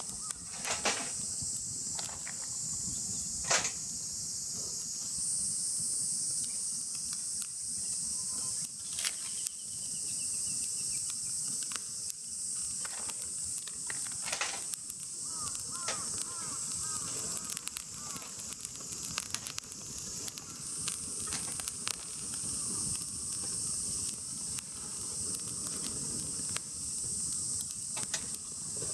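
Steady high-pitched drone of a summer insect chorus, with scattered sharp crackles and clicks and a few short bird chirps.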